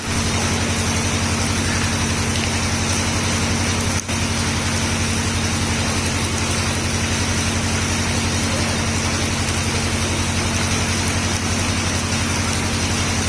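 An engine or motor running steadily: a low, even hum with a fast fine pulse under a constant hiss, with a momentary drop about four seconds in.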